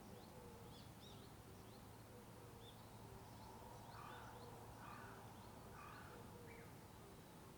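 Faint wild birdsong: many short, high chirps from small birds, with three harsher calls about a second apart in the middle. A low steady hum of distant road traffic runs underneath.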